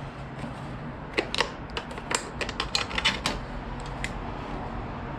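A run of light, irregular clicks and taps, plastic motorcycle fairing pieces and their snap-in clips being worked loose by hand, over a steady low hum.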